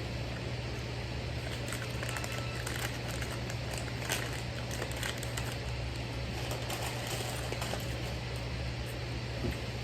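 A steady low mechanical hum with an even hiss, and faint scattered clicks and rustles over the middle of the stretch.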